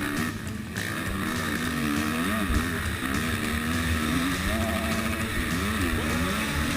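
Honda CRF four-stroke single-cylinder motocross bike engine, recorded from an onboard camera, revving up and dropping back again and again as the throttle is worked around the track.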